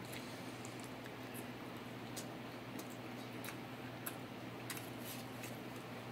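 Close-mouthed chewing of a bite of pizza, heard as a scatter of small wet mouth clicks, over a steady low hum.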